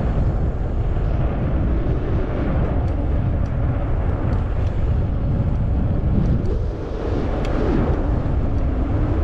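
Steady rumble of wind buffeting the microphone and riding noise from a moving 20-inch fat-tire e-bike, with a few faint ticks.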